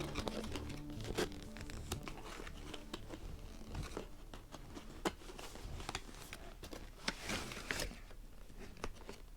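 Packaging being handled and opened. There are scattered light clicks and rustling, with a longer tearing, crinkling rustle about seven seconds in.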